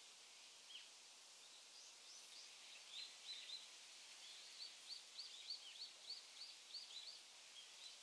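A small songbird giving a run of short, high chirps, three or four a second, starting about a second and a half in and stopping just before the end, over a faint steady hiss.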